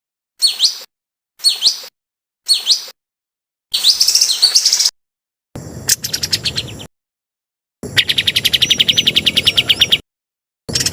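Edited compilation of recorded songbird song with abrupt silent gaps between phrases. It opens with three short, identical whistled phrases about a second apart, then a denser tangled phrase, then two fast trills, the second lasting about two seconds.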